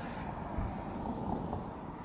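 Car noise, a low rumbling haze fading slowly.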